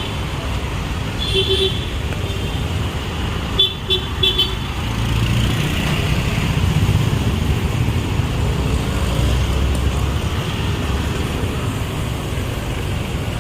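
Busy street traffic with engines running and vehicle horns tooting: one short toot about a second and a half in, then a quick run of three toots around four seconds in. The engine rumble swells for a few seconds in the middle as a vehicle passes close.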